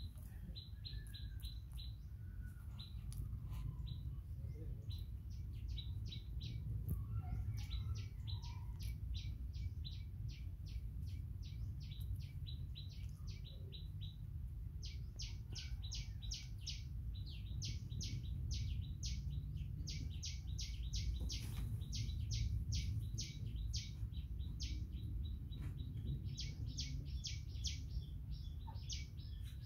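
A bird chirping, a long run of short high chirps at about three a second, with brief pauses, over a steady low rumble.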